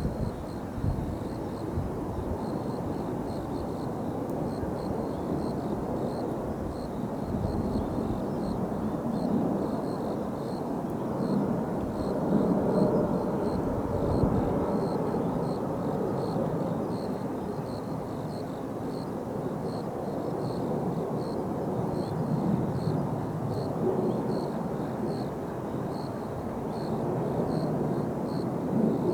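Jet noise of Blue Impulse's Kawasaki T-4 jets flying in the display, a continuous rumble that swells about halfway through and then eases. A faint high pulse repeats about once a second behind it.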